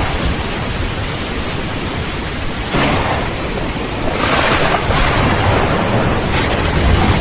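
Steady rain with a low rumble of thunder underneath, the rumble swelling near the end.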